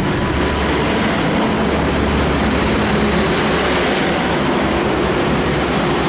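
Train running at a station platform: a loud, steady rumble with a low drone under it.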